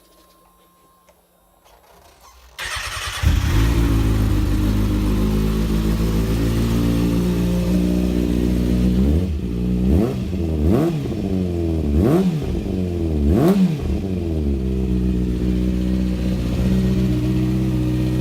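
2013 Kawasaki ZX-6R's inline-four engine, breathing through an Akrapovič carbon exhaust with the catalyst removed, starting about two and a half seconds in and settling to idle. In the middle it is blipped four times in quick succession, each rev rising and falling, then it returns to a steady idle.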